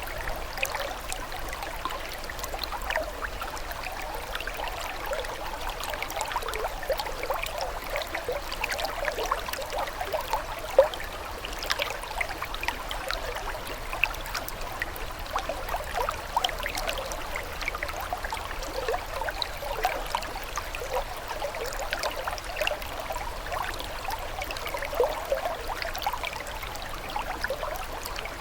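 Running water trickling and burbling steadily, a dense patter of small splashes and bubbling notes, with one sharper splash about eleven seconds in.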